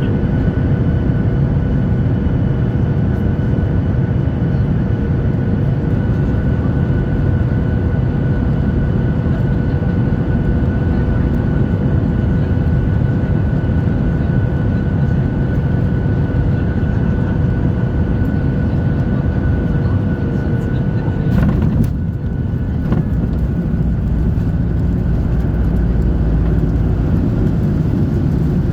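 Cabin noise of a Boeing 737-800 airliner: a steady drone of engines and airflow with a faint constant whine. About three-quarters of the way through the whine cuts off abruptly at a brief click, and the low rumble changes after it.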